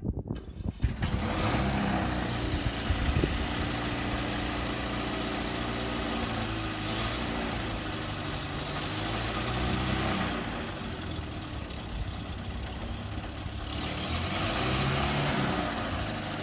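A van engine starts about a second in and then runs, its note rising and falling a few times as the revs change.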